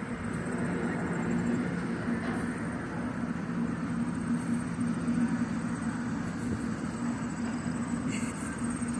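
A steady low mechanical hum, even in pitch, over a constant background rush.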